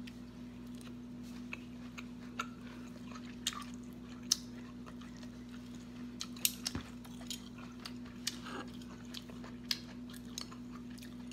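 A person chewing a mouthful of sticky rice with shredded coconut: faint, irregular mouth clicks and smacks over a steady low hum.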